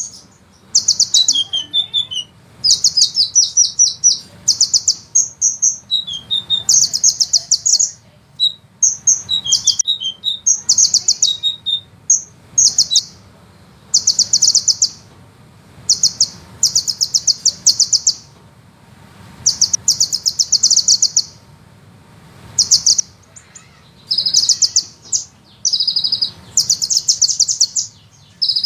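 Olive-backed sunbird singing: high-pitched rolling trills of very fast repeated notes, each trill lasting a second or two, repeated with short gaps between them.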